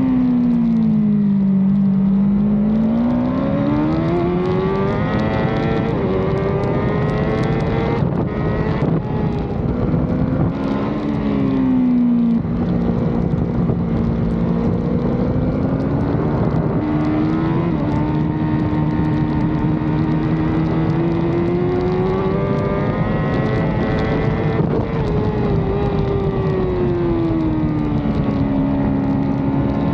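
Racing superbike engine under race load, its revs falling as it slows for corners and climbing hard as it drives out, rising through the gears in repeated sweeps.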